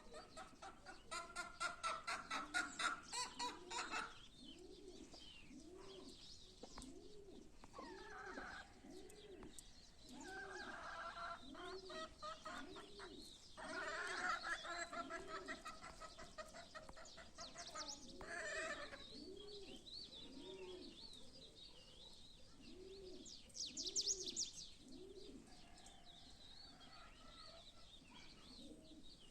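A dove cooing over and over, about one low arched coo a second, while small songbirds chirp and trill in loud quick bursts that come and go.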